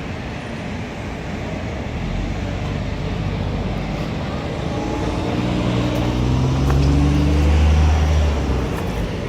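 Engine of a 2006 Chevrolet Malibu with a broken transmission that drives only in reverse, running, then revving up with rising pitch and growing louder for a few seconds before dropping back near the end.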